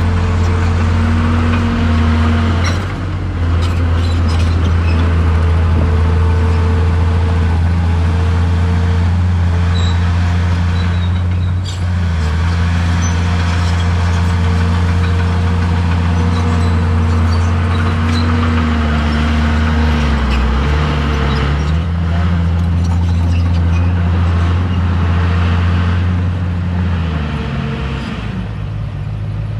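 Heavy diesel engine of earth-moving machinery running hard, its pitch shifting a few times as the load and throttle change, with a few sharp knocks about ten and twelve seconds in.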